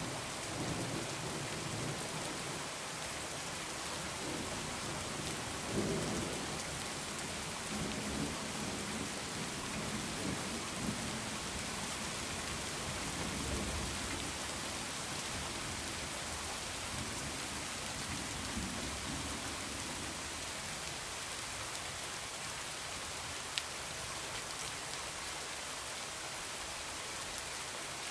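Heavy rain falling steadily, with thunder rolling low and uneven through the first two-thirds before dying away. Near the end there is a single sharp click.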